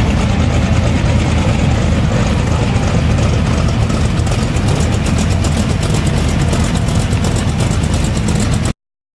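A car engine running steadily at idle, a low, even rumble with a faint rapid ticking over it in the second half, which cuts off abruptly near the end.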